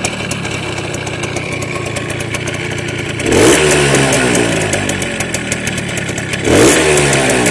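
Minsk motorcycle's single-cylinder two-stroke engine running at low revs, with two short throttle blips about three seconds and six and a half seconds in.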